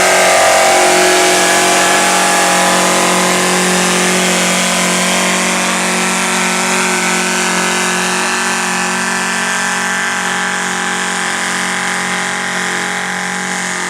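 Two-stroke diesel engine of a pulling vehicle running hard at steady high revs under load on the track, a dense multi-tone drone that slowly grows fainter.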